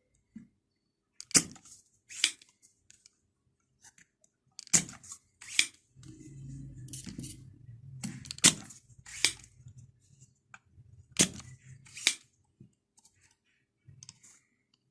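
Spring-loaded desoldering pump (solder sucker) being cocked and fired repeatedly, sucking molten solder off a MOSFET's pins: four pairs of sharp snaps, each pair less than a second apart.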